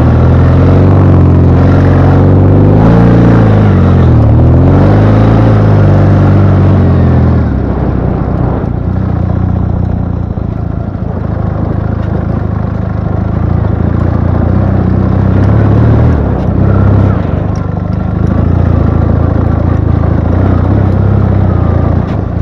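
Ural motorcycle's 750 cc boxer-twin engine revving while riding, its pitch rising and falling for the first seven seconds or so. It then drops to a lower, quieter, steadier run.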